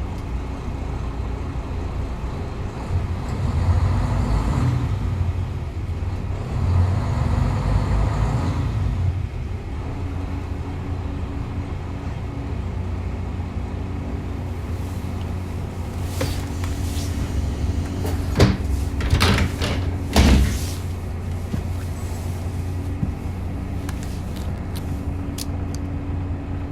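Cabin sound of a diesel railcar: a low rumble with two louder swells in the first third, then the engine idling with a steady low hum. About two-thirds through comes a run of sharp clicks and knocks.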